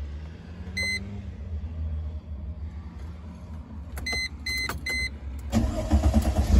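Car's warning chime beeps once, then three times in quick succession, and about five and a half seconds in the 2004 Mercedes-Benz SLK 320's 3.2-litre V6 cranks and starts, getting much louder.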